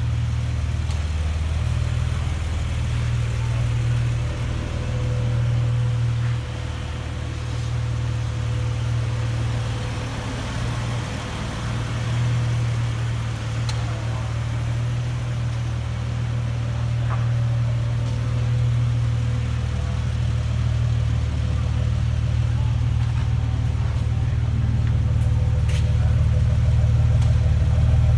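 2005 Jeep Wrangler Unlimited's 4.0-litre inline-six engine running steadily at idle, getting slightly louder near the end.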